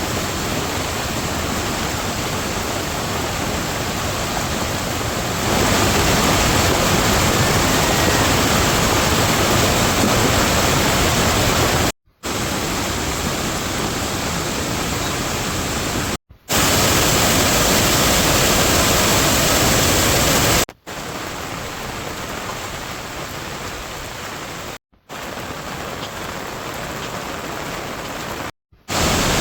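Steady rushing of water, an even hiss with no separate drops or tones. It is broken by five brief silent gaps, and its loudness changes from one stretch to the next.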